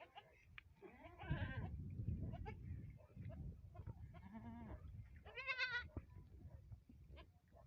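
A farm animal bleating in wavering cries, the clearest about a second in and another about five seconds in, with low rumbling handling noise between them, as the animal is held for veterinary surgery.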